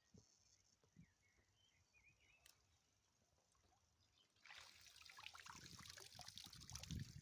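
Water splashing and trickling, starting suddenly about four and a half seconds in and carrying on with many small crackling clicks.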